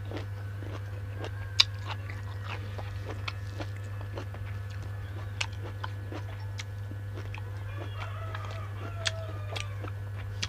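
Close-up eating sounds: chewing and biting, with many short sharp clicks and crunches scattered irregularly, over a steady low hum.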